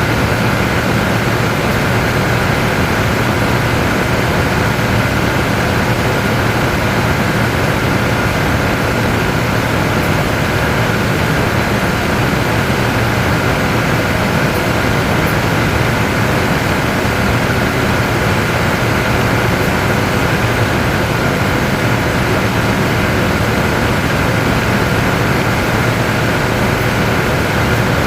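Boeing 787-9 turbine noise, a steady loud rush with a constant high whine and a low hum, unchanging throughout.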